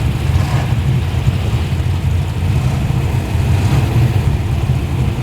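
Muscle car engine running at low revs as the car rolls slowly past, a steady, deep note.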